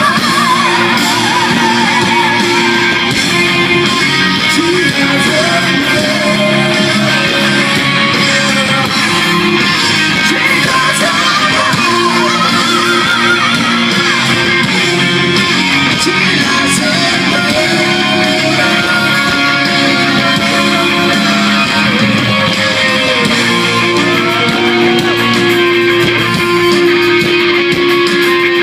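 A rock band playing live: electric guitar over bass and drums, with a lead line that bends and wavers in pitch.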